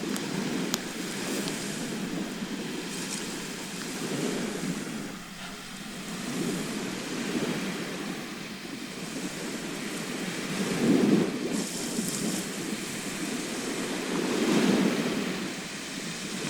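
Sea waves washing ashore: a steady rush that swells and ebbs, loudest about eleven seconds in and again near the end.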